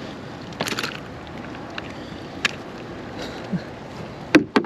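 Water sloshing and splashing around a fishing kayak over a steady hiss of wind, with a few brief knocks and two sharp clicks near the end.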